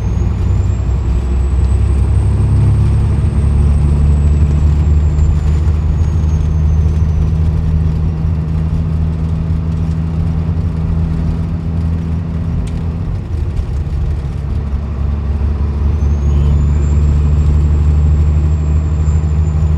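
Peterbilt 379's 550 hp Cat C-15 diesel engine pulling down the highway, heard from inside the cab as a steady low drone. The drone eases about 13 seconds in and builds again a few seconds later, and a faint high whine rises and falls twice.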